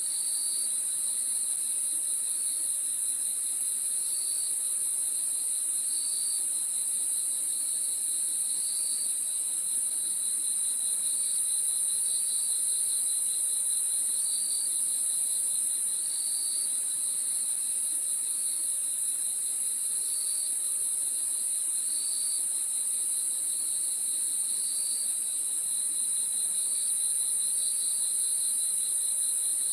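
Crickets chirping at night: a steady high, continuous trill from many insects, with a lower chirp pulsing in a regular rhythm about once a second.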